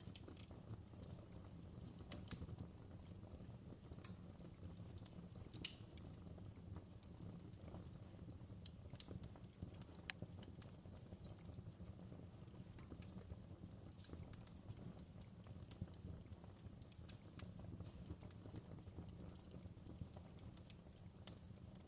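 Wood fire crackling in a fireplace, faint: irregular small pops and snaps over a soft, steady low rumble.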